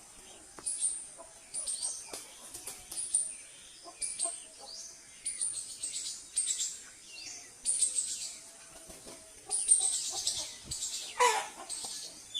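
Aseel chickens calling: short, high chirping calls repeating about once a second, with one call that falls steeply in pitch near the end.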